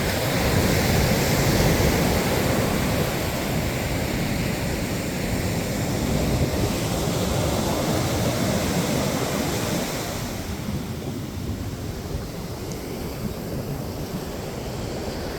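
Ocean surf washing on the beach, with wind rumbling on the microphone; the hiss eases a little about ten seconds in.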